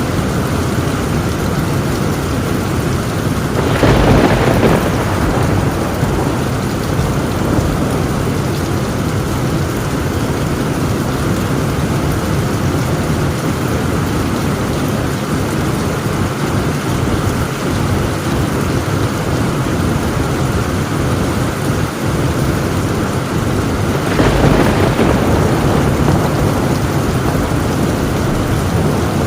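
Heavy rain falling steadily on a tin roof, with thunder rumbling up twice: once a few seconds in and again some twenty seconds later.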